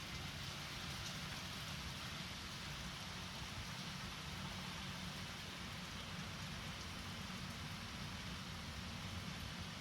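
Steady rain falling during a thunderstorm, an even hiss with no thunderclap in it.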